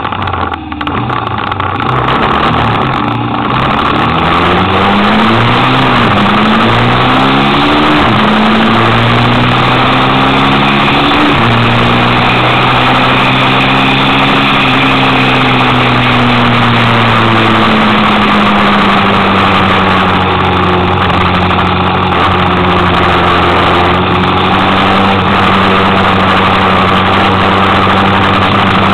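Kymco Quannon 125cc motorcycle engine pulling away and accelerating, its revs climbing and dropping back with each upshift, about four times in the first twelve seconds, then holding a steady cruise with a slow easing of revs. Wind rushes over the microphone throughout.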